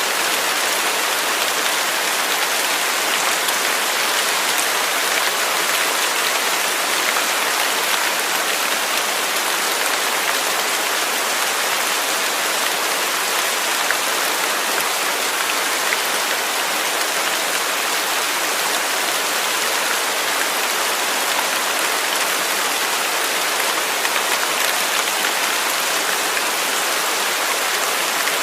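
Waterfall rushing steadily: an even, unbroken hiss of falling water, bright and with little deep rumble.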